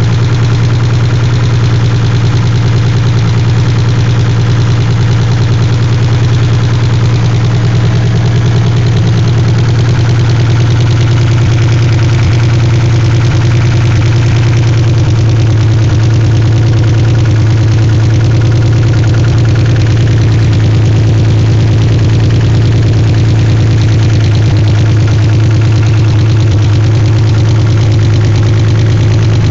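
Nissan 300ZX's VG30DETT twin-turbo V6 running steadily at idle, with a lifter tick that the owner suspects comes from a bad lifter in the passenger-side bank.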